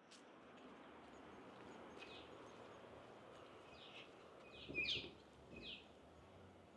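Birds chirping faintly over a steady outdoor background hiss: about five short, falling chirps, one about two seconds in and a cluster between four and six seconds. The loudest comes near five seconds, together with a low bump.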